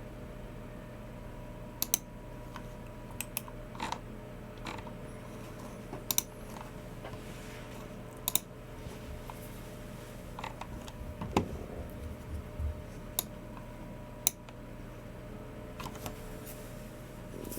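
Sparse, irregular clicks from a Logitech MX Keys Mini keyboard and a G304 mouse, one every second or two, some in quick pairs. A steady low electrical hum runs underneath.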